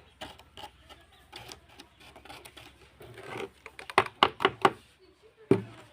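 Irregular clicks and taps of small hard objects being handled, with a quick run of four sharper clicks about four seconds in and one louder knock near the end.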